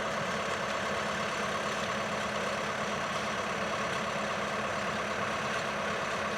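Track hoe's diesel engine running steadily, a constant engine drone with no change in pace.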